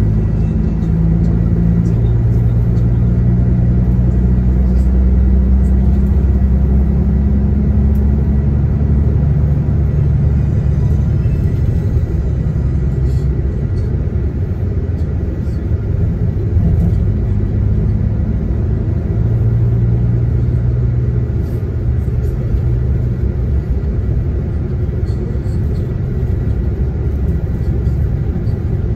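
Diesel coach engine and road rumble heard from inside the passenger cabin while under way; the engine note rises and falls as the coach speeds up and eases off.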